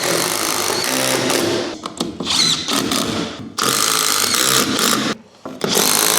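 Cordless impact driver hammering screws home in three long bursts with short pauses between them.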